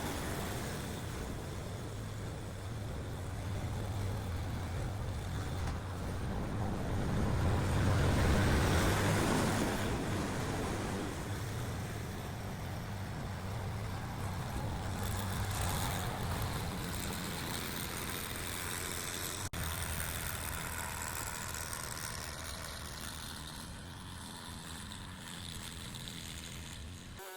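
An engine running steadily under rushing wind noise on the microphone.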